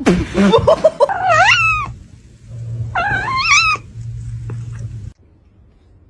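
A domestic cat meowing and yowling: drawn-out calls that bend in pitch, two of them rising about a second in and again near three seconds, over a low steady hum that stops about five seconds in.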